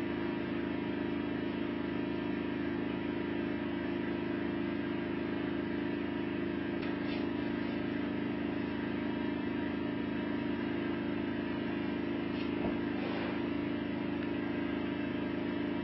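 Steady low mechanical hum, holding one even pitch with no change throughout.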